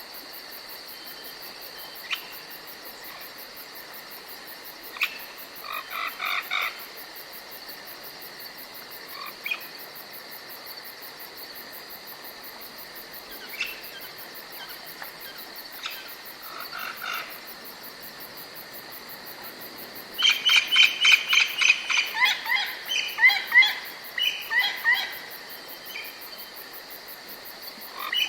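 Forest ambience: a steady high insect drone under scattered bird calls, short chirping phrases every few seconds, then a longer run of quick repeated notes about two-thirds of the way through.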